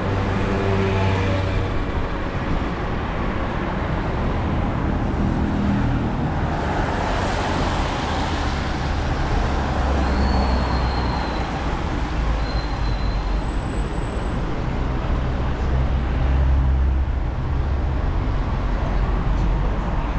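Road traffic passing: vehicle engines rumbling and tyres hissing on the road, with a few short high-pitched chirps about halfway through.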